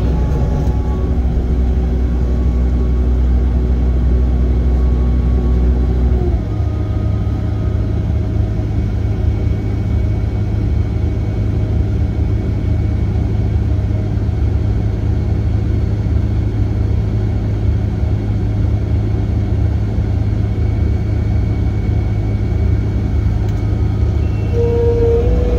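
Diesel engine of a construction machine running steadily. About six seconds in, its pitch steps up and then holds at the higher speed.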